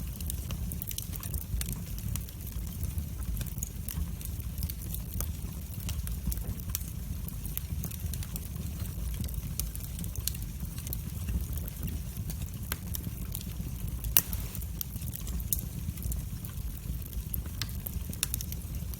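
Wood fire burning in a fireplace: a steady low rumble of flames with frequent small crackles and pops, and one louder pop about three-quarters of the way through.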